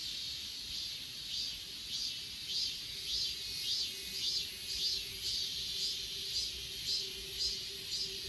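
Grass insects such as crickets chirping: a steady high-pitched trill, with another insect's chirps repeating about twice a second from about a second in.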